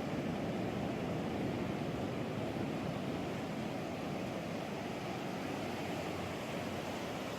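Ocean surf breaking along the beach: a steady, even rush of waves with no single crash standing out.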